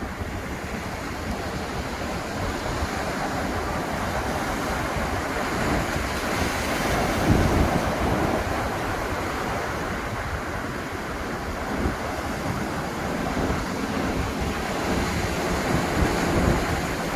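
Atlantic surf breaking and washing up the beach, a steady rush that swells about halfway through, with wind buffeting the microphone.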